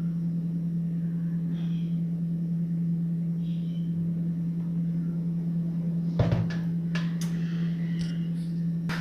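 A steady low hum, with one knock about six seconds in and a few light clinks of kitchenware after it, while cake batter is poured from a blender jar into a pan.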